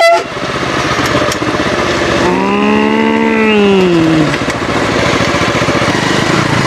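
Small engine of a homemade cot car running steadily under way in third gear. About two seconds in, a cow moos once for about two seconds, its pitch rising slightly then dropping.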